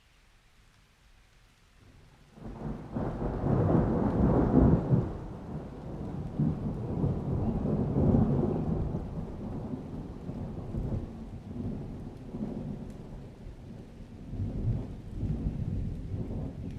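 A long roll of thunder: after a near-quiet start it breaks in suddenly about two seconds in, is loudest a couple of seconds later, and rumbles on in waves, swelling again midway.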